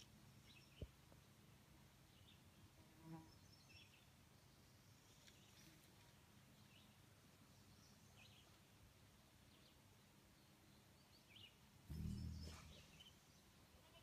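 Near silence outdoors with faint, scattered short bird chirps, a single click about a second in, and a brief low rumble near the end.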